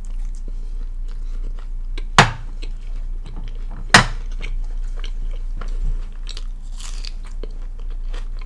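Close-miked chewing of a mouthful of garlic naan with paneer butter masala: wet mouth noises and small clicks, with two much louder sharp clicks about two and four seconds in.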